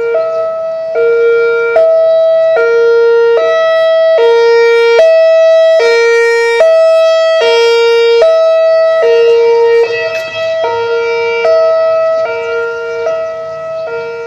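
Siren alternating between two notes in a high-low pattern, switching about every 0.8 seconds. It is loudest midway and grows fainter near the end.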